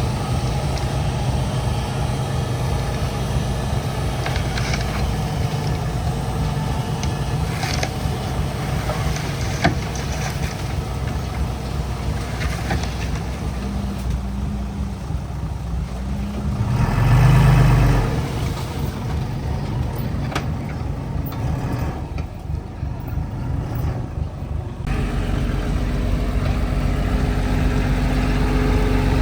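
Heavy diesel engine of earthmoving equipment running steadily, with a brief rise in revs about two-thirds of the way through. The engine sound changes abruptly near the end.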